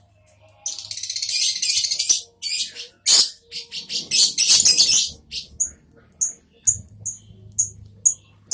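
Lovebird chattering in a dense run of high, rapid chirps, then giving a string of short, sharp chirps spaced a little under half a second apart in the second half.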